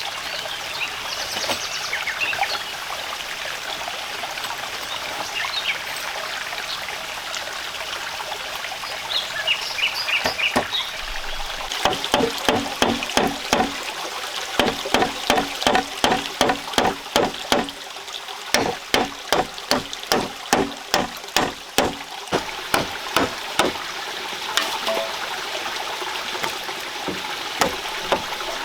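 Steady rain and running water. Through the middle stretch, for about twelve seconds, a fast run of sharp knocks sounds over it, two or three a second.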